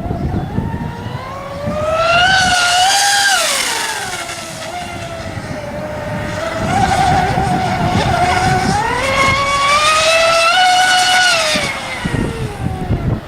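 Radio-controlled Mystic S-cat racing catamaran running laps at speed, its high motor whine rising in pitch and loudness and then falling away twice as the boat comes past.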